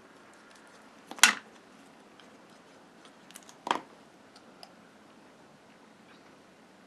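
Two sharp clicks, about two and a half seconds apart, the first the louder, with a few faint ticks of paper and tools being handled at a craft table.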